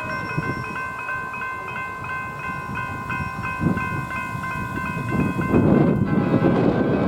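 Rail grinder train passing: a steady high whine of several tones with small regular clicks, joined about five and a half seconds in by louder rumbling noise.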